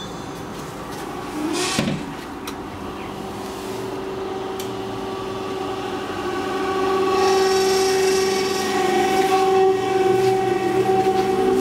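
A train running along the station track, its steady pitched whine building in level over several seconds with a rushing hiss partway through.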